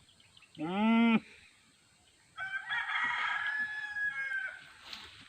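A rooster crows once, a drawn-out call of about two seconds starting about two and a half seconds in. Before it, near the start, comes a short, lower, half-second call.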